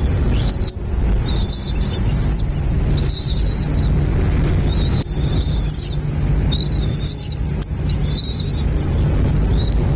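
Birds chirping in short, high, repeated phrases about every second, over a steady low rumble.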